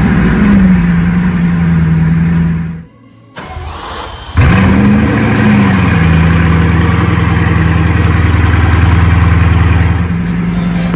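A car engine starting twice. Each time it fires, flares up in revs, then settles into a steady idle. The first run cuts off after about three seconds, and the second start comes about a second and a half later.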